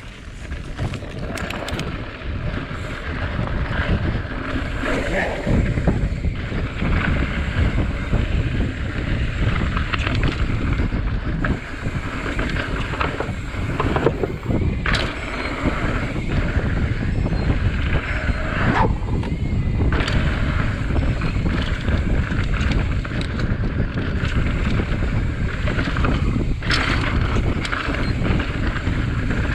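Wind buffeting the microphone and the rolling rumble of a Santa Cruz Tallboy mountain bike riding down a dirt trail, building over the first few seconds, with scattered sharp knocks and rattles from the bike over bumps.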